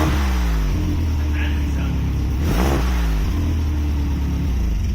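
Subaru EJ207 turbocharged flat-four running through a Cobb cat-back exhaust with an added glasspack muffler, blipped twice: each blip rises sharply and falls back to idle within about half a second.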